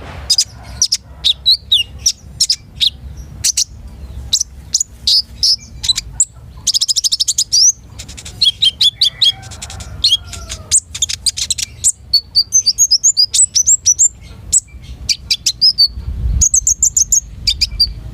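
Long-tailed shrike (cendet) singing actively: a busy stream of loud, sharp high chirps and whistled notes, with a fast rattling trill about seven seconds in.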